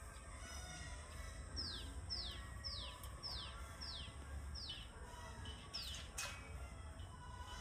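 A bird singing a quick series of about seven high whistled notes, each sliding downward, roughly two a second, then stopping, over a steady low rumble. A single sharp click comes near the end.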